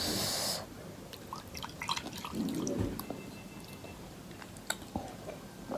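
Close-miked mukbang eating noises: a short wet slurp of spicy instant noodles at the start, then soft chewing with small mouth and utensil clicks.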